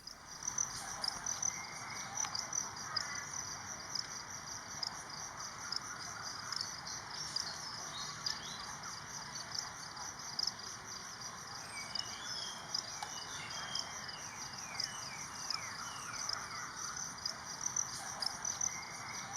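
Steady high trilling of insects with an even background hiss. About twelve seconds in, a bird gives a short run of quick falling notes.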